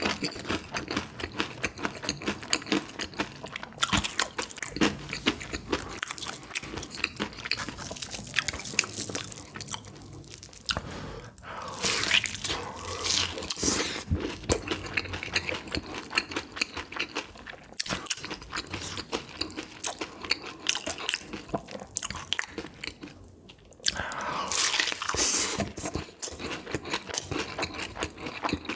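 Close-miked biting and chewing of cheese-laden food: a dense run of crunches and mouth sounds, with louder bites about twelve and twenty-five seconds in.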